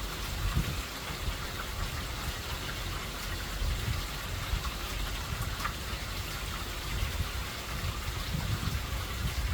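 Steady heavy rain falling during a hurricane, with scattered drop ticks over an uneven low rumble.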